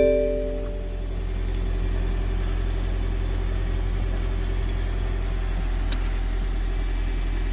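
Car engine idling with a steady low drone. A ringing tone left by a sharp knock just before fades away in the first second.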